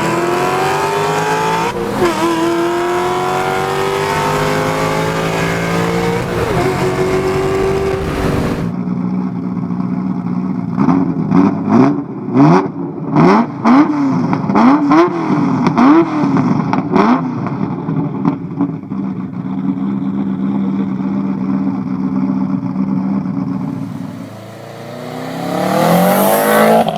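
High-performance car engines heard in turn. First a car accelerates hard through its gears, its pitch climbing with short breaks at the shifts. After a cut, an engine idles with a series of sharp throttle blips, and near the end another car accelerates loudly.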